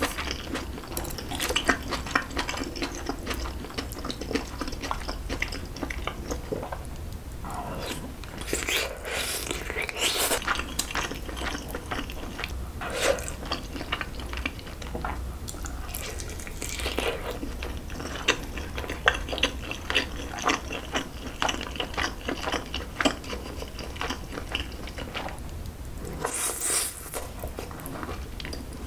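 Close-miked eating of braised pork back ribs with kimchi: biting and chewing, with wet mouth sounds and many small clicks, and a few louder bursts of noise along the way.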